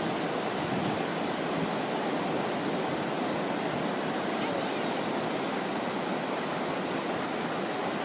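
Steady rush of ocean surf, an even wash of water noise with no separate breaking waves standing out.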